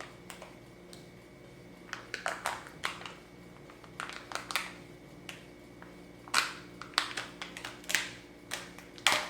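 Small objects being handled up close: irregular clicks, taps and short crackles, starting about two seconds in, over a faint steady hum.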